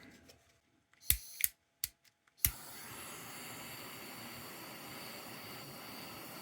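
A handheld gas torch being lit: several sharp clicks of the igniter, and on the last one the flame catches and a steady hiss starts, used to heat a lantern joint for soldering.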